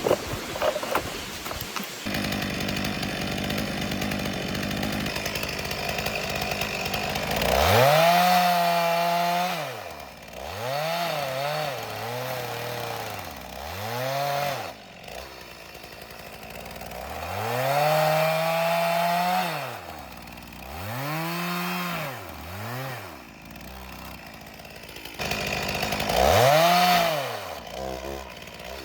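Chainsaw engine idling, then revved up and down several times with idling between, the pitch climbing and falling with each rev.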